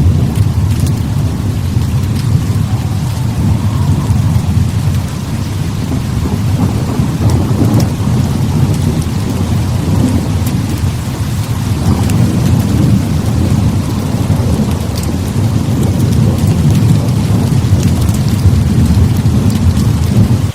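Heavy rain falling steadily, with a continuous low rumble of thunder that swells and eases.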